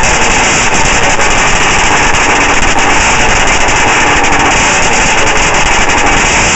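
1993 Arctic Cat Wildcat 700 EFI snowmobile's two-stroke engine running steadily and very loud through a straight pipe, the baffle removed from its muffler.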